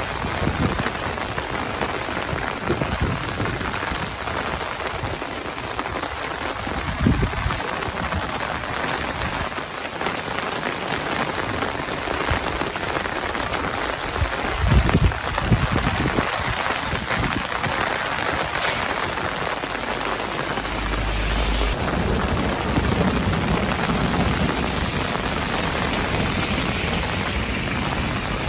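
Heavy, stormy rain falling steadily in a dense rush, with short low rumbles about 7 and 15 seconds in.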